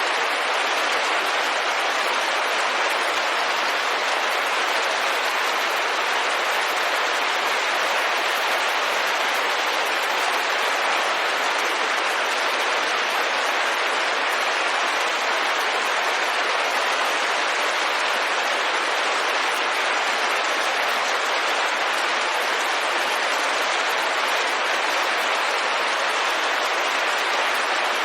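Steady, even rain falling on a window, a dense hiss with no separate drops or changes.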